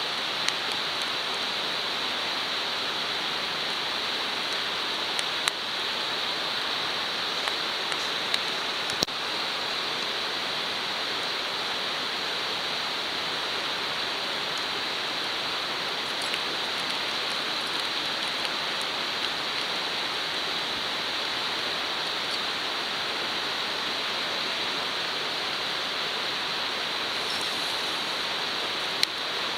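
Steak sizzling in a Petromax wrought-iron frying pan: a steady hiss with a few sharp pops scattered through it.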